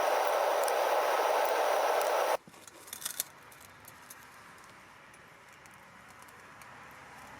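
Propane-fired melting furnace burner running with a steady noise that stops suddenly about two seconds in. A few light metallic clinks follow, then low background noise.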